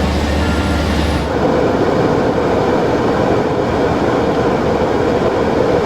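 Factory production machinery running with a loud, steady mechanical noise. About a second in, the sound changes from a low hum with hiss above it to a steady mid-pitched drone.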